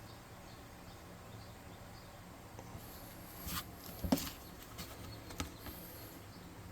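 Quiet room hum, then a scatter of light clicks, taps and scratches from small hobby items being handled on a work surface, the loudest about four seconds in.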